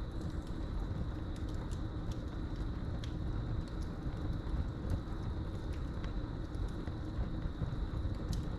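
Wood fire burning in a fireplace, crackling with scattered sharp pops over a low steady rumble, while crickets keep up one steady high-pitched trill.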